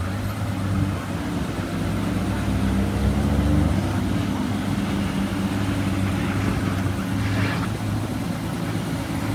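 A car engine running with a low, steady drone, growing a little louder about three to four seconds in.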